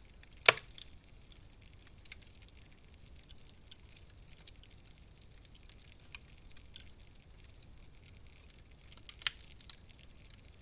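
Wood fire crackling in a fireplace: scattered sharp pops and snaps over a soft hiss, with one loud pop about half a second in and another near the end.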